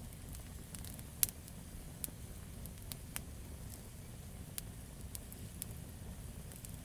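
Campfire of burning wood crackling: sharp snaps and pops at irregular intervals, one louder pop about a second in, over a low steady rumble.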